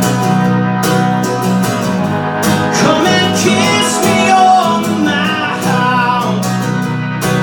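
Live music: a strummed acoustic guitar keeping a steady rhythm under a singer's voice, which carries a line of the song in the middle stretch.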